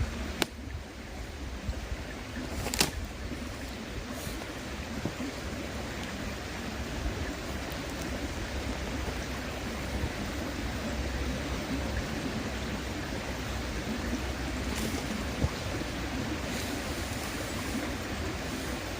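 River murmuring steadily, with a few sharp pops from a wood campfire, the loudest about three seconds in.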